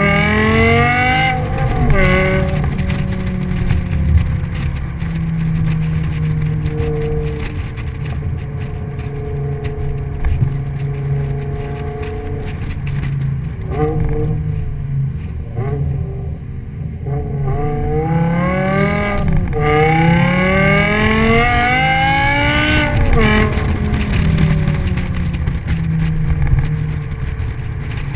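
Car engine pulling through the gears, its revs climbing and dropping at gear changes several times, with a steady stretch of cruising in between, over a constant low road and wind rumble.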